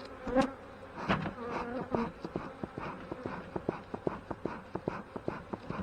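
Honey bees buzzing around an open hive, one buzzing close past about half a second in. From about two seconds on, a quick run of small sharp clicks sounds over the buzzing.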